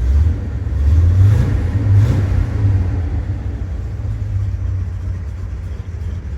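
1967 Buick GS 400's V8 engine running at idle, briefly louder between about one and two seconds in.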